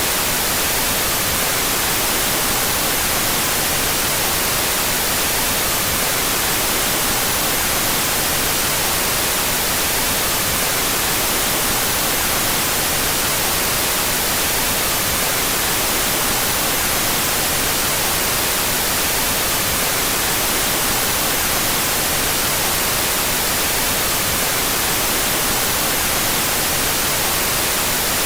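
Continuous white noise: a steady, even hiss, strongest in the high frequencies, that never changes in level.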